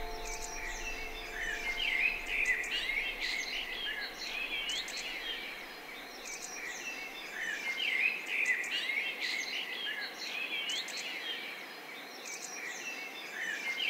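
Several small birds chirping and singing together in a busy chorus, swelling and easing every few seconds. The last held notes of the music fade out in the first second.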